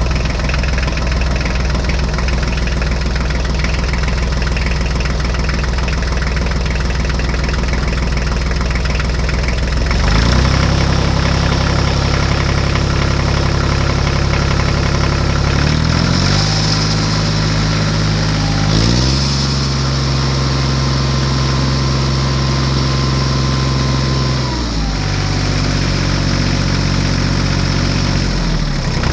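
Engine running continuously, settling at several different speeds with short revs up and down between them, about 10, 16, 19 and 25 seconds in.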